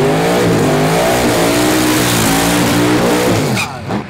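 Big-block twin-turbo V8 drag car running at full throttle down the strip, its pitch dipping and climbing as it pulls. The engine note drops away sharply about three and a half seconds in as the throttle is lifted.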